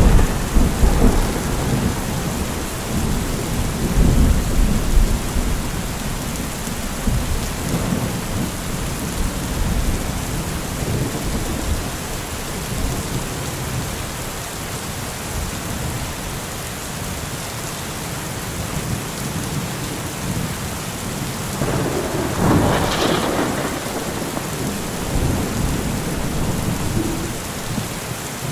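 Heavy rain falling steadily in a thunderstorm. A loud roll of thunder rumbles through the first several seconds and fades, and another thunderclap cracks and rumbles a little past the two-thirds mark.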